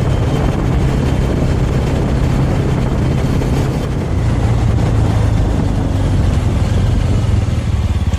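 Small Suzuki motorcycle's engine running at a steady cruise, its note holding level, under a constant rush of wind noise.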